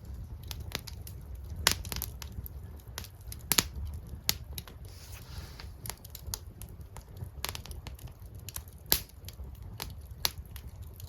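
Wood campfire crackling, with irregular sharp pops over a low rumble.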